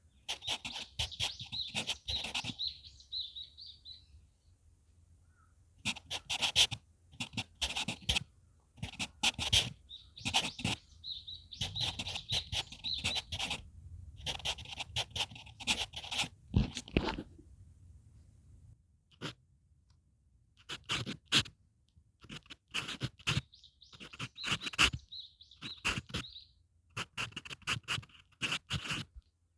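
HB pencil writing on manuscript paper: scratchy strokes in short bursts, with pauses between. Birds sing in the background three times, near the start, around the middle and near the end.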